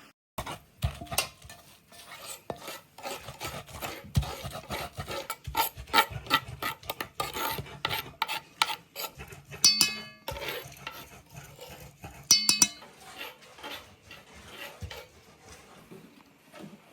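Kitchen utensils clattering and scraping against pots and dishes, a spoon stirring and knocking as food is prepared. Two ringing clinks stand out, about ten and twelve seconds in.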